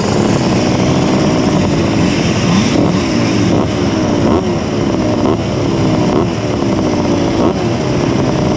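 Tuned 90 cc reed-valve two-stroke Simson S51 moped engine running under way, its pitch rising and falling over and over as it is worked through the revs.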